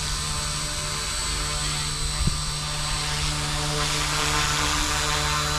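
Eachine E160 micro RC helicopter in flight: a steady whir of its electric motors and rotor blades over a high hiss. There is a single short click about two seconds in.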